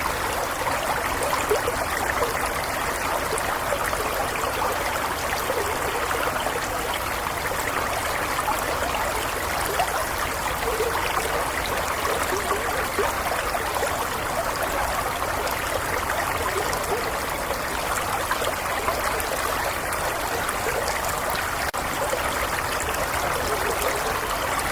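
A small stream flowing over stones, a steady rushing with fine bubbling and trickling.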